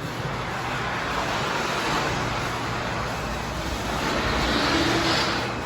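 Engine running steadily just after it has been started, a low rumble under a rushing noise.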